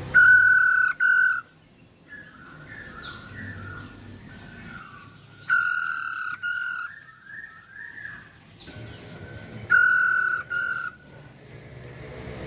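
Female poksay hongkong (masked laughingthrush) calling: three loud, harsh calls about four seconds apart, with softer warbling and a few falling notes between them.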